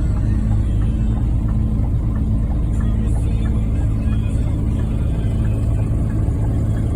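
Scania engine running steadily at an even speed, a low constant hum with no revving.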